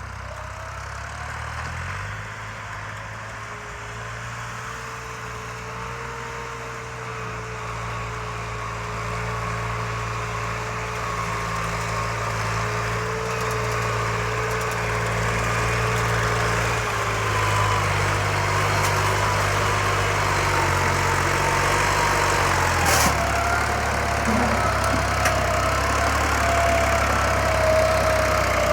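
Tractor engine labouring under load as it tries to pull a fully loaded trolley, growing gradually louder, with a wavering whine over its steady note. About two-thirds of the way through there is a sharp click and the engine note drops lower.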